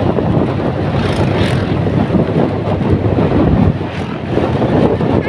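Loud, continuous low rumbling noise of wind buffeting the microphone.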